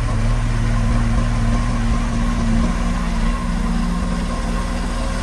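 Diesel engine of heavy construction machinery running steadily at an even, low engine speed.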